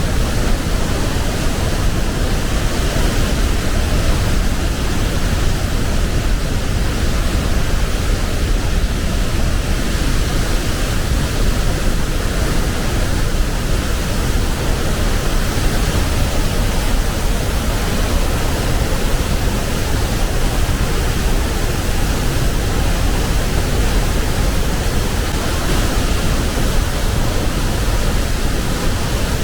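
Tännforsen waterfall: a loud, steady rush of falling water close at hand.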